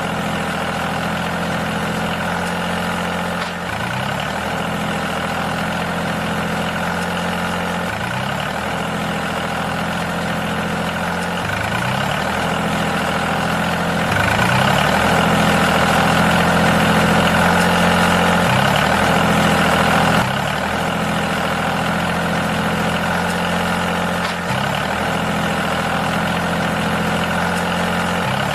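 Engine idling steadily, with a short rise in pitch repeating about every four seconds. It gets a little louder for a stretch in the middle.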